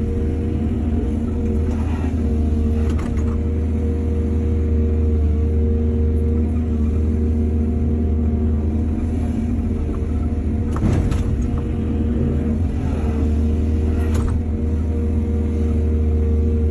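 Excavator's diesel engine running steadily under work, with a few sharp knocks and clanks from the bucket and soil scattered through: a pair early, and a louder cluster around the middle and again later.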